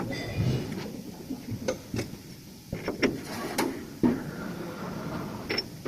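Irregular sharp knocks and clinks of metal tools and parts being handled, about six separate strikes.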